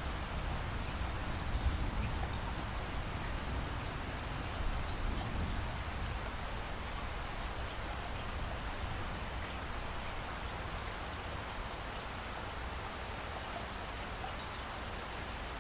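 Steady hiss of falling water, even and unbroken, with a low rumble underneath in the first few seconds that fades away.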